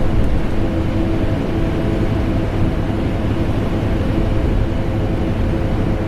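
Vacuum cleaner motor running continuously, blended with the hum of an air conditioner: a steady, deep drone with a faint motor tone and no change.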